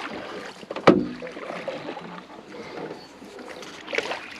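A sharp knock against the jon boat's hull about a second in, ringing briefly, amid quieter knocks and handling noise in the boat.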